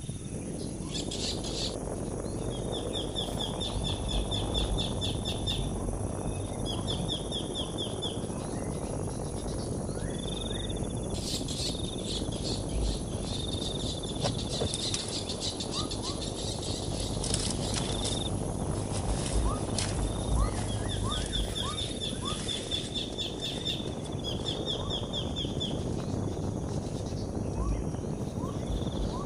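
Outdoor natural ambience: a steady rustling noise with repeated short, high trills that recur every few seconds, and a few faint short rising chirps.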